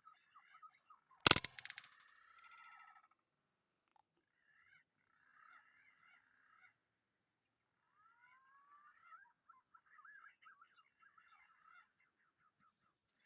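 A single sharp air-rifle shot about a second in, followed by a brief rattle. Around it, forest birds call and chatter, with rising whistled notes later on, over a steady high insect drone.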